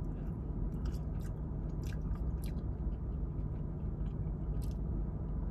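A woman biting into and chewing fried vegetarian mock-meat food close to the microphone, with scattered small mouth clicks over a steady low hum.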